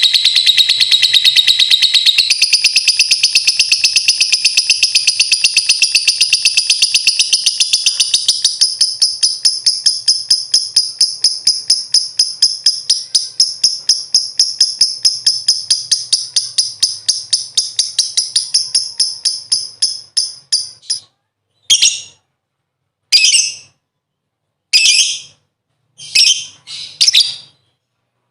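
Lovebird ngekek: a long, rapid, shrill chattering trill of evenly repeated notes that keeps going for about twenty seconds, slowly weakening, then breaks into a few short bursts with gaps between them near the end.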